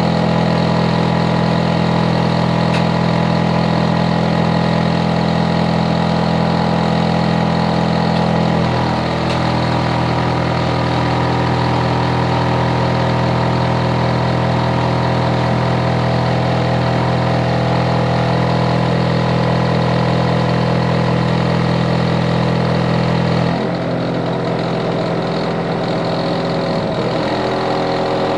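Hitachi air-conditioner outdoor unit running with a loud, steady multi-tone hum from its compressor and fan. The pitch of the hum shifts about nine seconds in, and again near the end, where it also drops slightly in level. Overly energetic, enough to be a neighbour noise problem.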